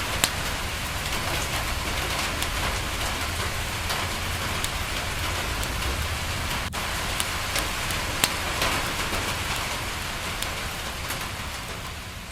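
Steady rain on a window pane, with a wood fire crackling and scattered sharp pops through it. The sound begins to fade down near the end.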